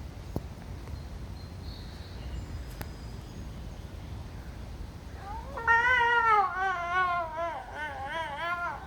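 Snow leopard calling during mating: after a few seconds of faint background, a loud drawn-out call starts about five and a half seconds in, its pitch wavering up and down in quick ripples.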